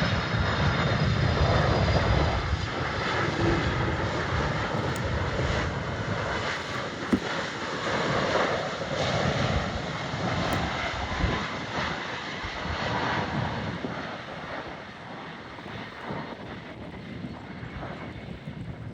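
Jet airliner's engines passing, loudest with a high whine at the start, then a steady rumble that slowly fades as the aircraft moves away.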